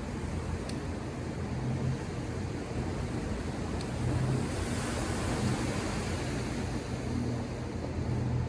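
Ocean surf washing on the shore over a steady low rumble, with one wave breaking and hissing louder about halfway through.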